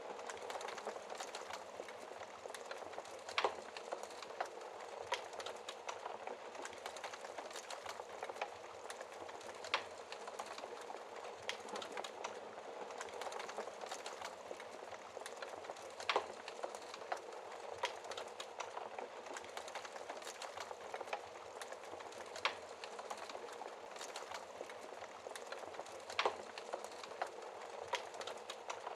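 Wood fire crackling in a fireplace, with frequent small ticks and a few louder sharp pops, over a steady hiss of rain.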